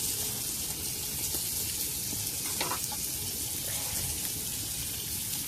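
Rice and beans frying in a pan over a campfire, sizzling steadily.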